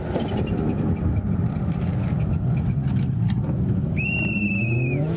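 Rally car engine running hard, with scattered short clicks through it. About four seconds in, a loud high whistle-like tone sounds for about a second, and the engine revs rise near the end.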